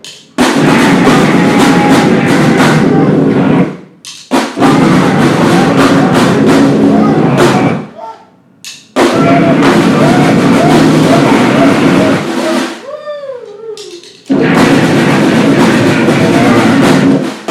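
Live noise grind: four loud, dense bursts of pounding drums and harsh noise, each about three seconds long and cut off abruptly, with short breaks between them. In the break about two-thirds through, a wavering, gliding voice-like wail.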